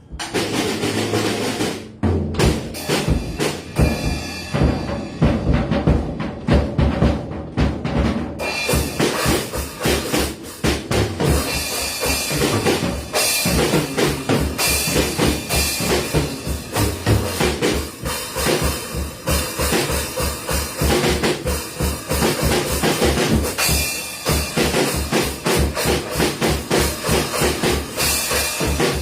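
Drum kit played hard and fast: snare and tom strikes from about two seconds in, cymbals joining about eight seconds in, over a steady, rapid kick-drum pulse.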